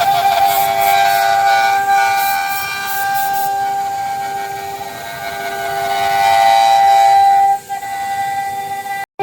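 High-speed spindle of a 5-axis CNC router whining steadily while cutting, a set of held tones that swell and ease as the cutter works.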